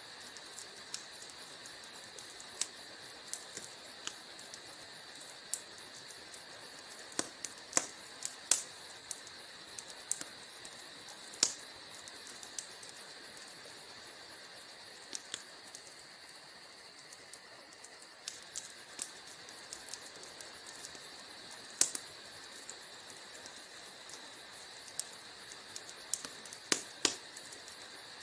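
Wood fire burning in a fireplace: irregular sharp crackles and pops over a steady soft hiss, with a few louder snaps scattered through.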